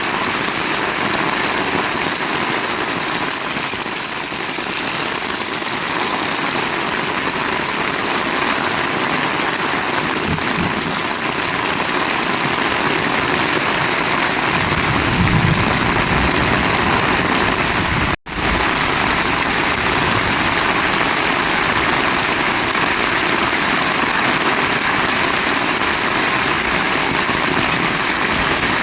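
Heavy rain falling in a steady, even hiss, with a split-second dropout about two-thirds of the way through.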